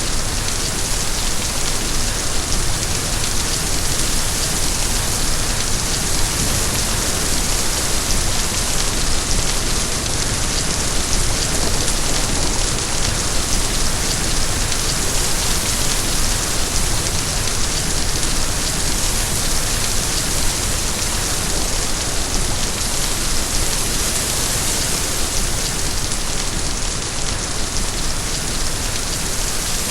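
Steady, heavy rain falling and pattering on a surface, an even hiss without a break.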